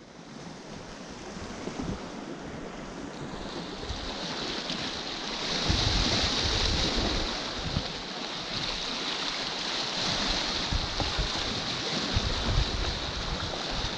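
Sea surf washing over a rocky shore, a steady hiss that swells about four seconds in, with gusts of wind rumbling on the microphone.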